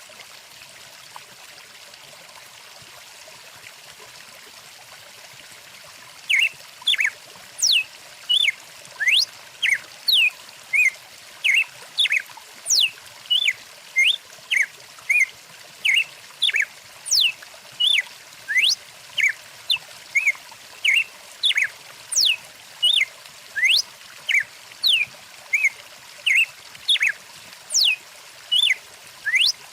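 Stream water running steadily, and from about six seconds in a bird singing a fast, regular run of short chirps mixed with sweeping whistles, about two notes a second, louder than the water.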